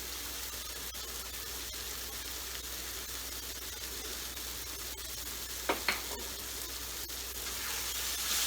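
Mashed grilled brinjal with onion frying in mustard oil in a pan, a steady sizzle, with two quick knocks about two-thirds of the way through.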